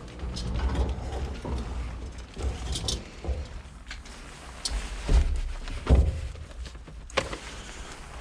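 Rummaging and handling of scrap in a bin: irregular dull thuds and knocks, the loudest two about five and six seconds in, with a few sharp clicks over a low rumble.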